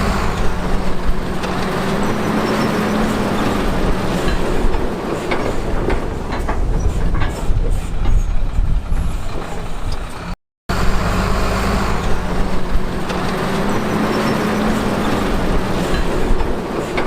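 Heavy diesel construction machinery working: a steady engine drone with scattered clatter of rock and steel. The sound cuts out for a moment about ten seconds in, then resumes.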